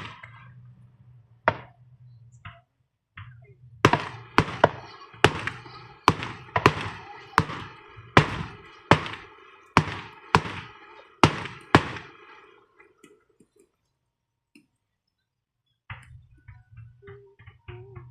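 Fireworks going off: a few scattered sharp bangs, then a quick run of about a dozen bangs, a little more than one a second, that stops a few seconds before the end.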